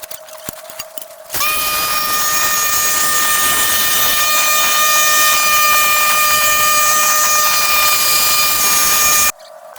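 A motorized power tool running at a steady high speed: a loud whine over a hiss that starts suddenly about a second in and cuts off sharply near the end. Light clicking is heard before it starts.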